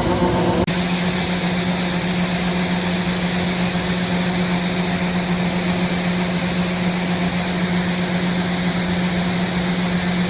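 Farm machinery engine running steadily: one constant hum with a broad rushing noise over it, unchanging throughout.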